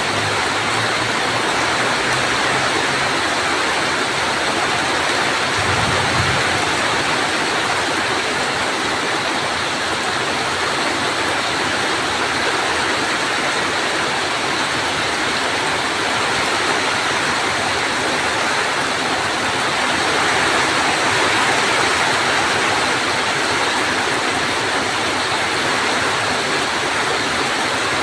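Heavy rain falling steadily in a thunderstorm, an even loud hiss, with a brief low rumble about six seconds in.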